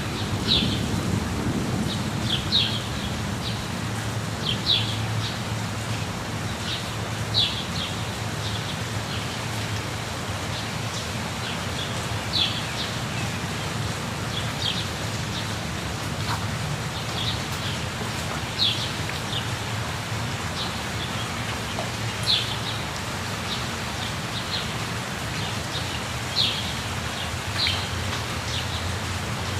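Steady rushing of a waterfall, with short high bird chirps repeating every second or two, some in quick pairs.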